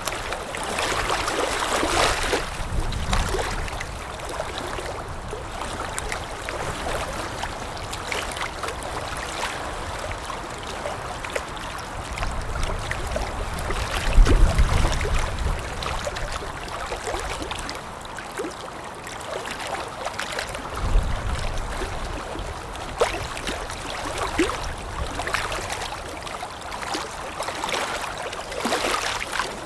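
Water lapping in small irregular splashes with wind blowing; low gusts swell up about halfway through and again a little later.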